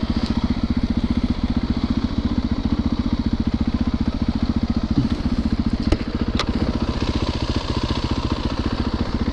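Yamaha YZ450FX single-cylinder four-stroke dirt bike engine running steadily under way, its firing pulses even throughout. A couple of sharp knocks come about six seconds in.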